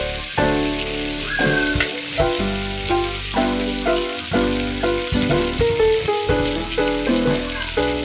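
Shrimp frying in a pan with onion and garlic, a steady sizzle, under background music of held melodic notes.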